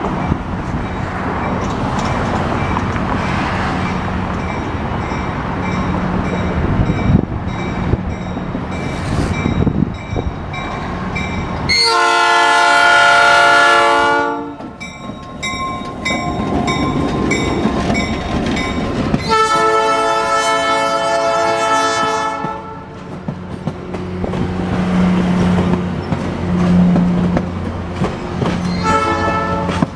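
Passenger train rolling along the track with a steady rumble. Its locomotive horn sounds two long chime blasts, about seven seconds apart, and then a short blast near the end.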